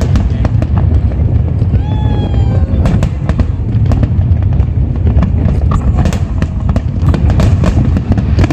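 Aerial fireworks display bursting continuously: a steady deep rumble of booms with rapid sharp cracks and bangs throughout.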